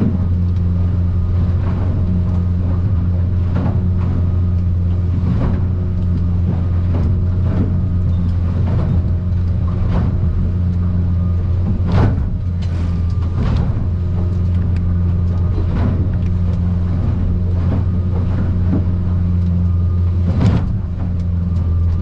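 Outboard motor of a Stabicraft 2050 Supercab aluminium boat running with a steady low drone, heard from inside the cab. Repeated knocks and thuds come every second or two as the hull slams through rough swells, the sharpest about twelve seconds in and again near the end.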